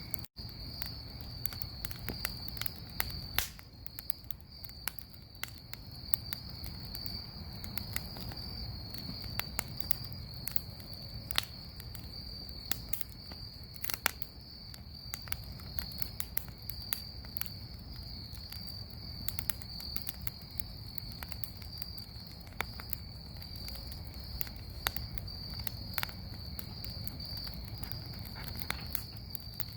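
Bonfire crackling, with sharp irregular pops and snaps, a few louder than the rest, over insects trilling steadily in the background.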